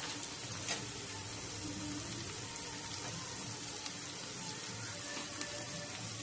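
Onion-tomato masala frying in oil in a non-stick kadai: a steady sizzle with a few faint pops.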